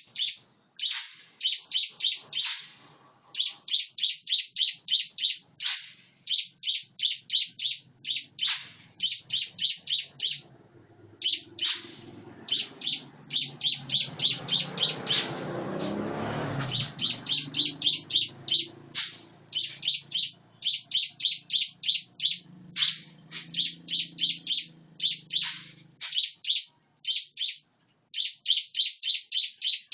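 Ciblek (prinia) singing continuously: rapid trains of sharp, evenly repeated high chirps in bursts of a second or two, broken by occasional single louder sweeping notes. A low rumble swells up in the middle and fades out again under the song.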